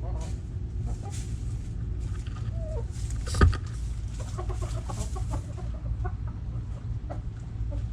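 Backyard hens clucking in short, scattered notes over a steady low rumble, with one sharp, loud sound about three and a half seconds in.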